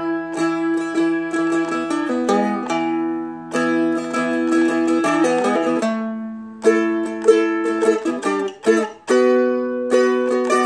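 Seagull Merlin M4 four-string fretted dulcimer picked with a flatpick, a banjo-like melody run over steady droning open strings, with a short pause about six seconds in.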